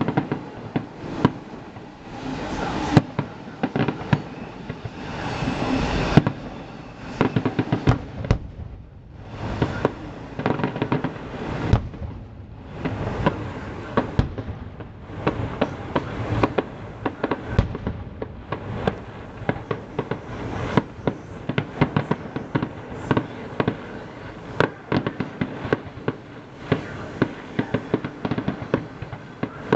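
Fireworks display: a dense, continuous run of bangs and crackling shell bursts. The bursts thin out briefly about eight seconds in and again around twelve seconds, then pick up again.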